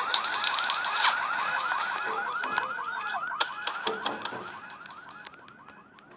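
Fast warbling alarm siren, its pitch rising and falling about seven times a second, dying away over the last two seconds, with scattered sharp clicks and knocks.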